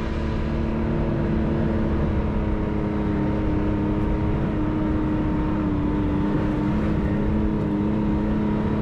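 Side-by-side UTV engine running steadily as the machine drives along a trail, its pitch holding nearly level.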